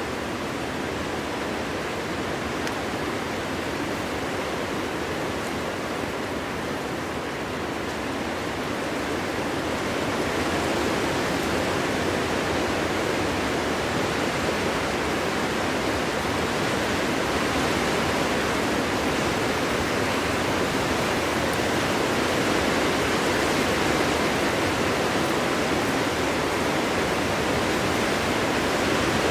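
Cold winter wind blowing steadily through a forest: a dense, even rushing with no gusting whistle, which swells a little louder about ten seconds in.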